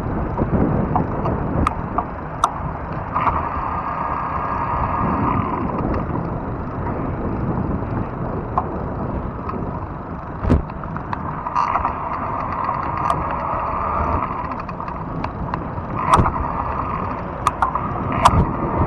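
Fat-tire electric bike riding along a trail: wind rushing over the microphone and tyre rumble, with scattered sharp clicks and knocks. A higher steady hum comes in for a couple of seconds about three seconds in and again for a few seconds around twelve seconds in.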